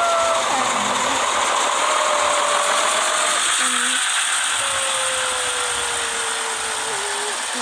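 Fire apparatus responding: a steady, loud rushing noise, with a faint siren tone slowly falling in pitch beneath it, like a mechanical siren winding down.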